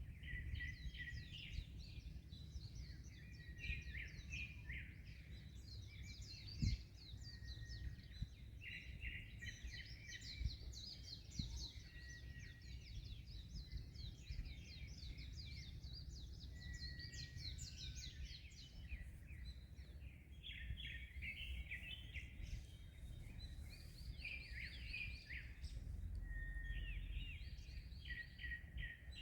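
Several songbirds chirping and trilling at once, short repeated notes overlapping throughout, with a few fast trills near the end. Beneath them runs a steady low rumble of wind and surf on an island shore, with a brief thump about seven seconds in.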